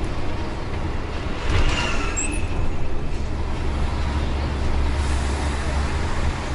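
Tour bus running on the road, heard from inside: a steady low engine and road rumble, with a brief surge of hissing noise and a faint squeal about a second and a half in.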